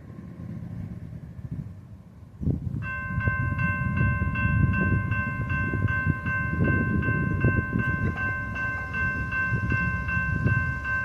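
A loaded coal train runs close by with heavy rumble from its wheels and cars. Just under three seconds in, the lead locomotive starts sounding a Nathan Airchime K3HL five-chime air horn, one long steady multi-note chord held on.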